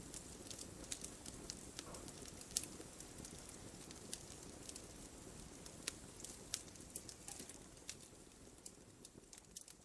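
Wood fire burning in a fireplace: a steady low rush of flames with frequent irregular sharp crackles and pops from the logs, a few of them louder. It fades somewhat toward the end.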